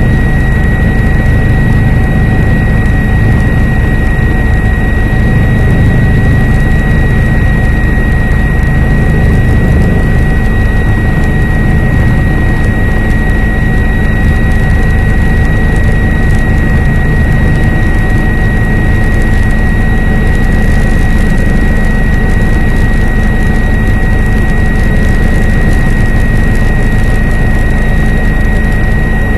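Helicopter running, a loud steady drone of rotor and engine with a constant high whine over it and no change in pitch or level.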